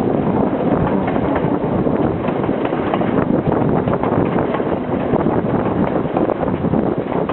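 Sri Lankan passenger train carriage running along the track: a steady, dense rattle and clatter of wheels and carriage, with wind noise on the microphone.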